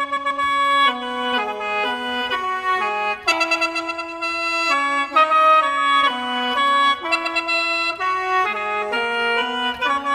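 Instrumental intro of an Isan luk thung song led by a khaen, the bamboo free-reed mouth organ: several reedy notes held together, moving in steps as a melody, with no singing.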